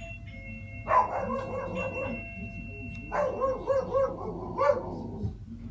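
A doorbell chime rings out, and a dog barks in response in two rapid volleys of many barks each, about a second in and again at about three seconds.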